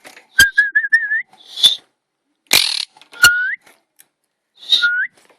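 Quaker parrot whistling: a quick run of short notes climbing in pitch, then two single whistles that slide upward. Noisy chirps and a few sharp clicks come in between.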